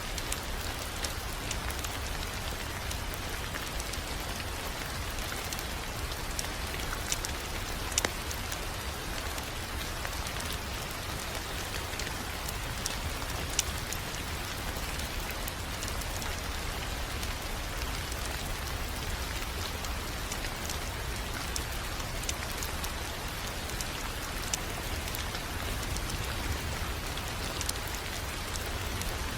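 Wood fire crackling: a steady hiss over a low rumble, with sharp pops every few seconds, the loudest about eight seconds in.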